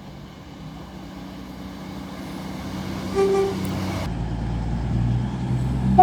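Train approaching, its engine rumble steadily growing louder and heavier, with one brief horn toot about three seconds in.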